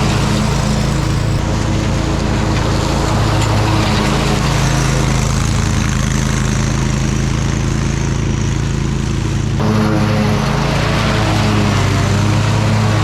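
Engine of a Toro Titan Max zero-turn riding mower running steadily under way. Its tone shifts abruptly about nine and a half seconds in, then carries on.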